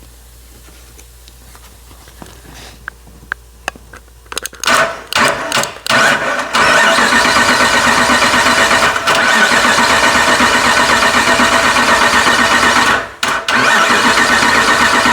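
A 5.7 Hemi V8 being cranked over on its starter. After some light clicks it comes in a few short bursts, then one long steady crank of about six seconds, then a brief stop and another crank near the end.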